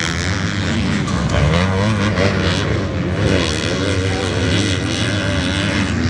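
Several motocross bike engines revving, their pitch repeatedly rising and falling as the bikes race and shift.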